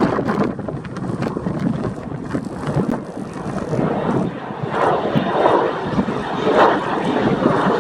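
Jet engine noise from Kawasaki T-4 jets, heavily buffeted by strong wind on the microphone. The noise is loud and rough, swelling a few times with crackling gusts.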